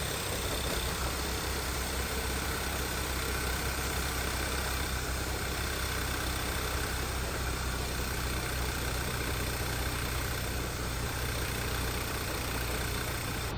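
Volkswagen Eos engine idling steadily.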